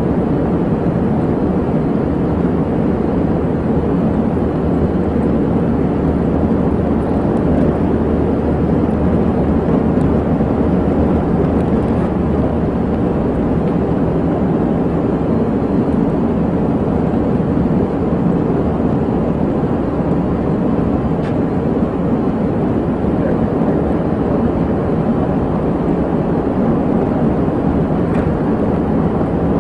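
Steady road and engine noise of a police car being driven, an even rumble with no breaks.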